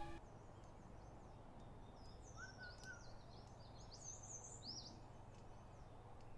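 Faint ambience of small birds chirping. A string of quick, high twittering calls comes through the middle few seconds.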